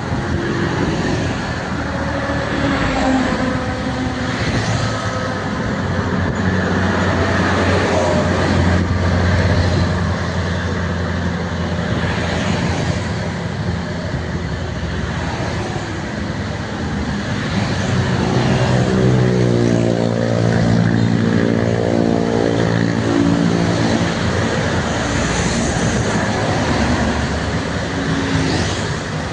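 Road traffic passing: heavy vehicles' engines running over tyre noise. Partway through, one engine note sweeps in pitch over several seconds as the vehicle goes by.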